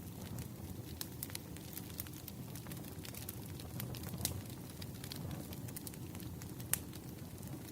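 Wood fire burning, with irregular crackles and pops over a low steady rumble. The loudest pop comes near the end.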